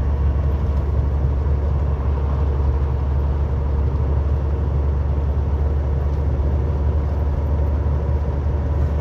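Steady road and tyre noise inside a moving car's cabin on the highway: a constant low rumble with a faint steady hum.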